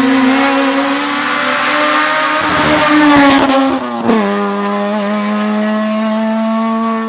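Race car engine held at high revs on a hill-climb run. It rises slightly in pitch and gets louder up to about three seconds in, drops sharply in pitch about four seconds in as the car goes by, then runs on at a steady pitch.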